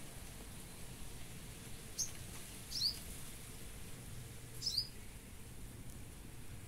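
A bird chirping in short high notes, in three brief groups about two, three and five seconds in, over a faint steady low hum.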